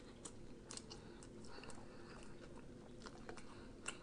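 A person chewing a mouthful of McDonald's fast food close to the microphone: faint, irregular wet mouth clicks.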